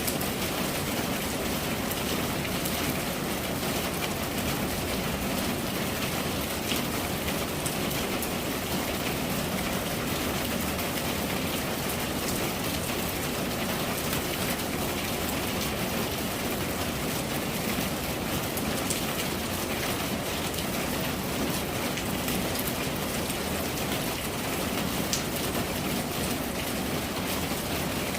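Steady rain falling, with many small drop taps on a surface.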